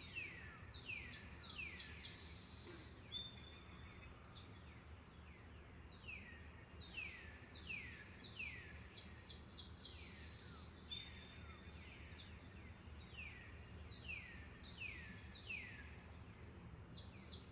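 Forest birdsong, faint: a bird sings three phrases of quick downward-sliding whistled notes, with a few short high whistles between them. A steady high whine and a low rushing hiss run underneath.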